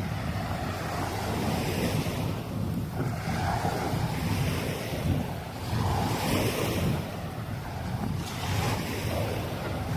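Sea waves breaking and washing up the sand in repeated surges, with wind buffeting the microphone in a steady low rumble.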